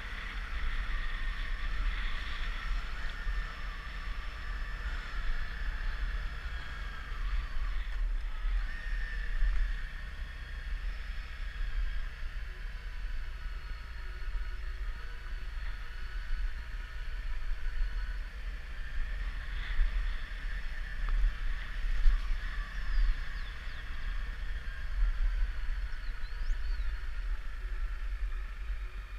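Wind buffeting the microphone as a continuous, gusting low rumble, with a faint steady higher hum behind it.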